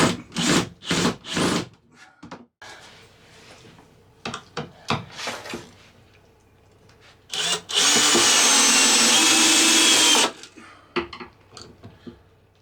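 Power drill driving screws to fasten a wall cabinet: a few short trigger bursts at the start, small handling clicks, then one steady run of about three seconds with a whine near the end.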